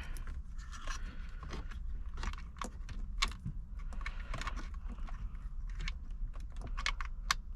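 Wiring-harness connectors being handled and pushed into place: a run of small, irregular plastic clicks and rattles, several a second.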